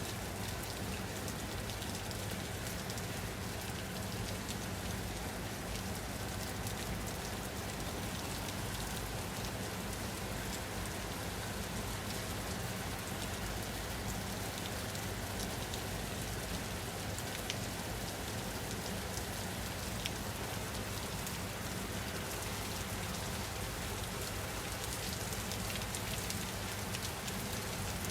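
Steady rain falling on a surface, a dense even patter of drops with an occasional sharper drip, over a constant low hum.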